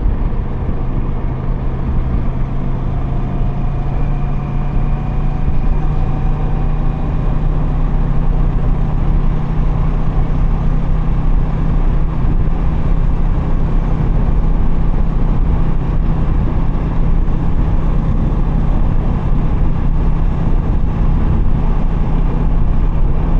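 Kawasaki Versys 650's parallel-twin engine running at a steady cruise, its note rising slightly a few seconds in, under heavy wind rush.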